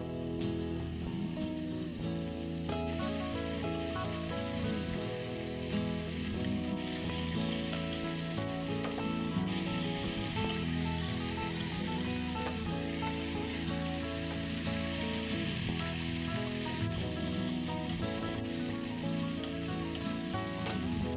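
Thinly sliced beef sizzling as it is stir-fried with chopsticks in an oiled frying pan; the sizzle grows louder about three seconds in. Background music plays throughout.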